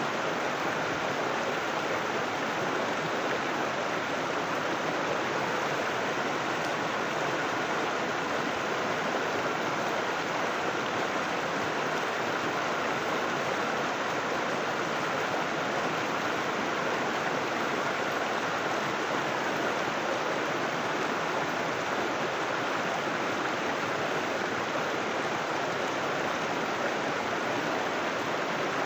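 River water flowing, a steady, even rush of water that does not change.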